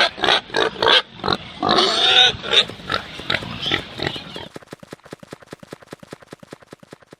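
Pig grunting: loud, separate grunts for about four seconds, then a quick run of short, soft grunts that fades away.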